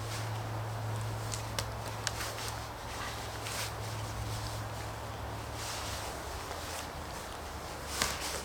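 Footsteps and rustling with scattered sharp clicks and snaps from working with sticks and brush, over a steady low hum. The loudest click comes near the end.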